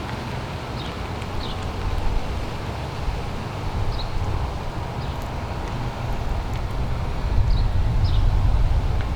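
Wind buffeting the microphone outdoors: an uneven low rumble that grows louder in the last few seconds, with several short high chirps over it.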